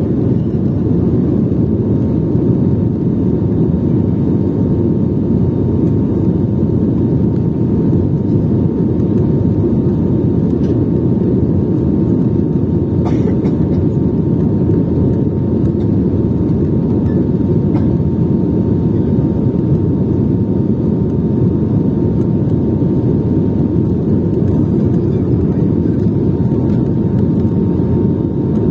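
Jet airliner's engines running with a steady, even rush and a faint steady whine above it.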